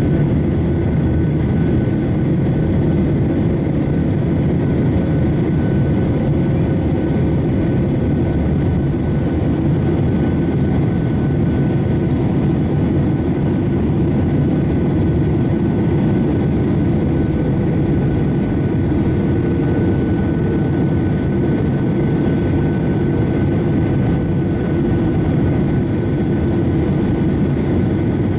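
Boeing 737-800 in its climb after takeoff, heard from the passenger cabin: a steady low rumble and rush from its CFM56-7B turbofan engines, with a couple of faint, steady whines above it.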